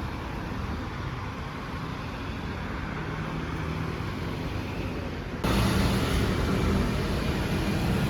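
Steady low background noise of the kind heard from road traffic, jumping abruptly louder about five and a half seconds in.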